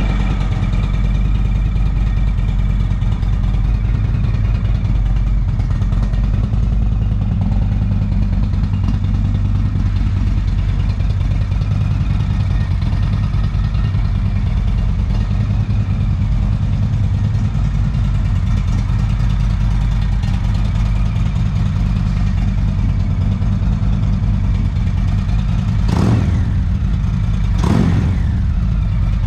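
2017 Indian Roadmaster's Thunder Stroke 111 V-twin running at a steady idle through a Freedom Performance aftermarket exhaust. Near the end the throttle is blipped twice, quick revs a second or two apart.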